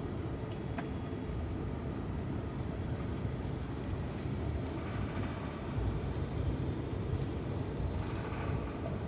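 Cabin noise inside an Airbus A350-900 taxiing after landing: a steady low rumble from the idling engines and rolling gear, with no sharp events.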